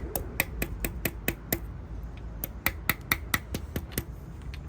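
Rubber mallet tapping a steel socket extension to drive a new balance shaft seal flush into a Volvo B230 engine block: quick sharp taps, about five a second, in two runs with a short pause between them.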